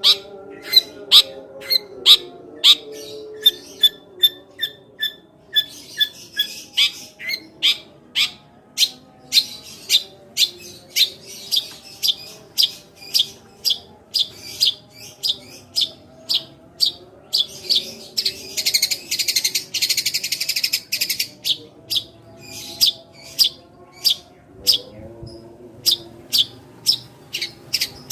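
Long-tailed shrike singing a rapid series of sharp, sparrow-like chips, about two a second, with a buzzy chattering burst about two-thirds of the way through. This is the 'tembakan gereja' sparrow-call mimicry used to provoke other shrikes into singing.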